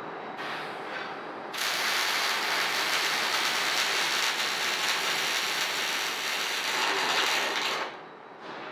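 Welding arc from a cobot-held welding torch laying one stitch weld: the arc strikes about a second and a half in, runs steadily for about six seconds, then cuts off abruptly near the end as the stitch finishes.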